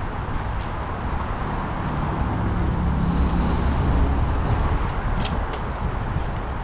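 Steady rushing wind and road noise during a bicycle ride, with a motor vehicle's engine swelling as it passes about four seconds in. A couple of sharp clicks come a little after five seconds.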